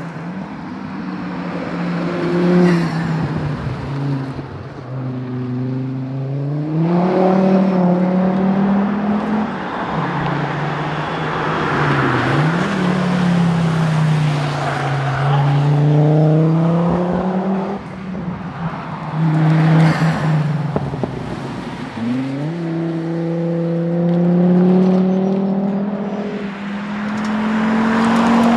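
Volvo 850R's turbocharged five-cylinder engine under hard acceleration, its pitch climbing through each gear and dropping at the shifts, several times over as the car is driven flat out between corners.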